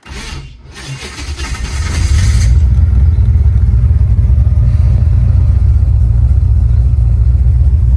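Holden VH Commodore's engine and exhaust, building up over the first two seconds and then running loud and steady with a deep, pulsing rumble, heard through an open car window.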